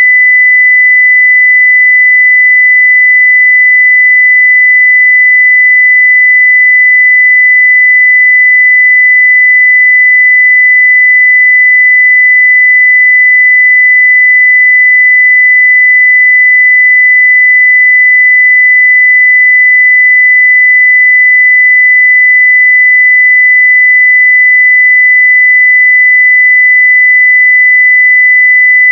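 A 2 kHz sine-wave test tone at full level (0 dB), held steady and unchanging.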